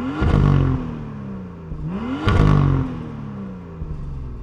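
BMW M2's turbocharged N55 inline-six revved twice through the M Performance exhaust with its valves closed, in Sport Plus mode. Each time the pitch climbs quickly and then falls away slowly; the second rev peaks about two seconds in.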